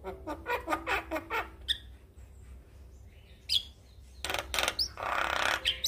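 Male Javan myna singing: bursts of rapid clicking chatter mixed with short rising whistled notes, and a harsh raspy squawk near the end.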